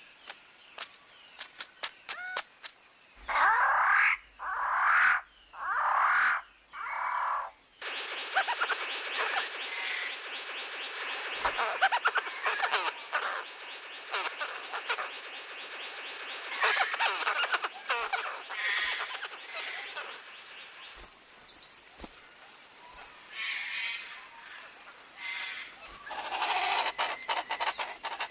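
Rainforest bird calls: four loud calls about a second apart, then a dense chorus of rapid chirping calls, with further loud calls near the end.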